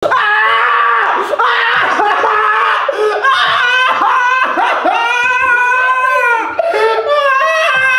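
A woman's high-pitched, wordless vocal outbursts: long cries that slide up and down in pitch, running one into the next with little pause.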